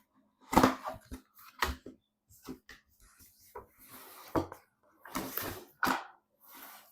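Hands handling PC parts and their packaging: irregular knocks and clicks with short bursts of rustling, the loudest knock about half a second in.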